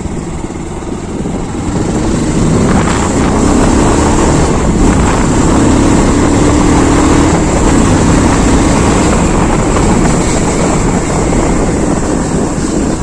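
Wind rushing and buffeting over a phone's built-in microphone while riding a motorbike, with the engine running underneath. It grows louder over the first couple of seconds, then holds steady.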